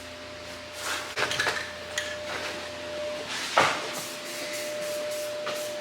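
A few light knocks and clicks, then one sharp knock about three and a half seconds in, over a faint steady hum.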